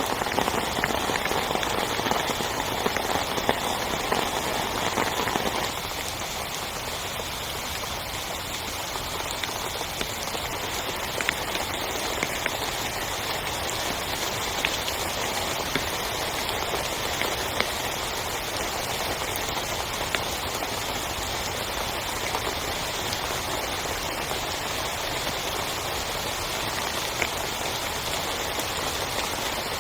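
Heavy rain falling steadily on a tent, with scattered single drops standing out. It is a little louder and fuller for the first five or six seconds, then eases slightly and stays even.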